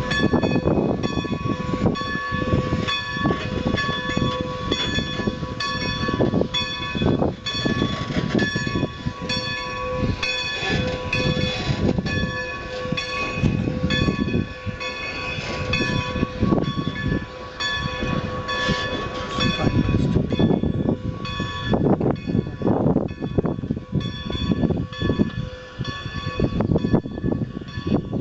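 Locomotive bell on Strasburg 2-10-0 steam locomotive No. 90 ringing steadily with evenly repeated strikes as the engine moves, over an irregular low rumbling from the locomotive and train.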